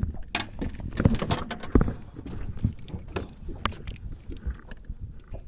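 Irregular knocks, clicks and thumps from handling in a small boat, with the heaviest thumps about a second and nearly two seconds in.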